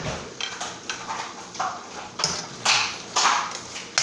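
Kitchen utensils clattering: a run of irregular clacks and clinks as a spoon is picked out from among others.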